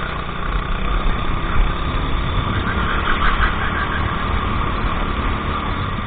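Go-kart engine running steadily.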